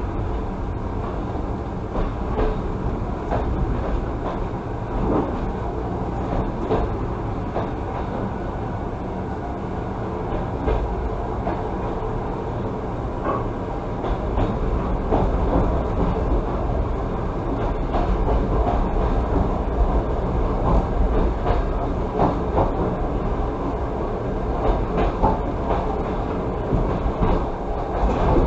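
Passenger train carriage running along the track at speed: a steady wheel-and-rail rumble with scattered rail-joint knocks, a little louder in the second half, heard from inside the carriage.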